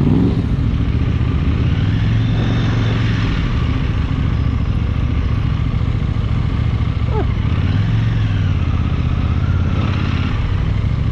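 KTM motorcycle engine running under way, its revs rising and easing off twice.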